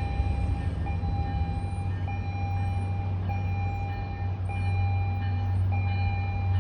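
MBTA commuter rail diesel locomotive and train running in with a steady low rumble. Over it a bell rings on an even beat, a stroke a little more than once a second.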